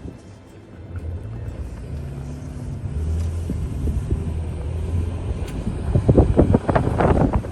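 Car driving through a snowstorm: a steady low engine and road drone that builds from about a second in, joined near the end by irregular rumbling buffets.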